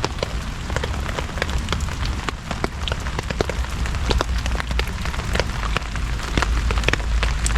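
Heavy rain falling on a tarp shelter overhead: a steady hiss scattered with many sharp drop taps, over a low rumble.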